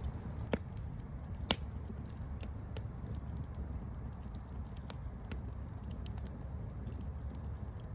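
Campfire crackling: wood burning with a steady low rumble and scattered sharp pops and snaps, two louder pops in the first two seconds.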